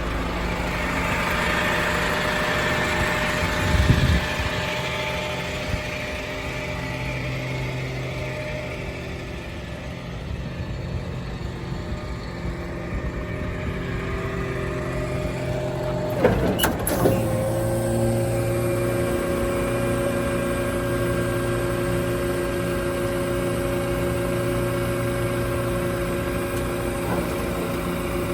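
Isuzu tow truck running with a steady whine over the engine as the bed is worked. There is a short clunk about four seconds in and a heavier knock around sixteen seconds, after which the whine holds steadier and louder.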